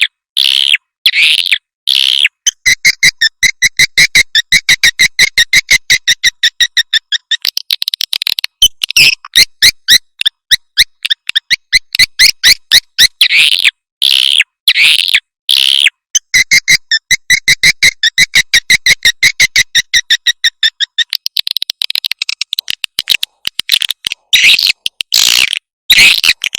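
Recorded edible-nest swiftlet calls of the kind played to lure swiftlets into a nest house. Rapid trains of dry clicking chirps alternate with long stretches of steady, high twittering, broken by louder single chirps.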